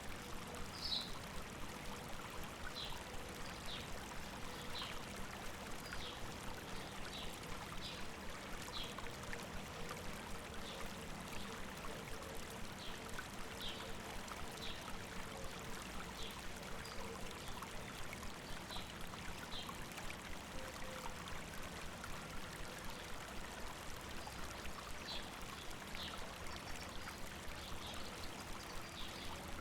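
Steady rushing and babbling of a river over rocks, with a bird repeating short, high chirps every second or two.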